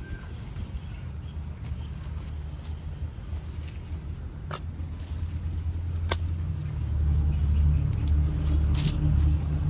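A low rumble that grows louder over the second half, with a few short, sharp clicks.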